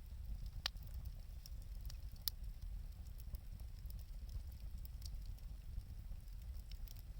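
Wood fire crackling: scattered sharp pops and snaps at irregular moments over a low steady rumble.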